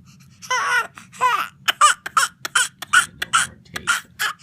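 An infant with a cleft lip and palate crying in short, rapid cries, about two a second, fussing while a palate retainer is pushed in and taped.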